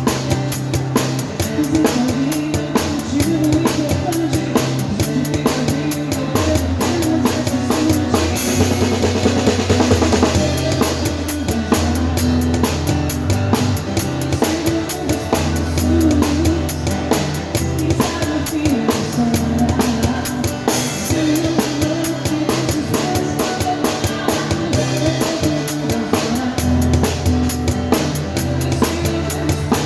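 Acoustic pop music: a drum kit with bass drum and snare keeps a steady beat over acoustic guitar and a low bass line, with cymbal crashes about eight and twenty-one seconds in.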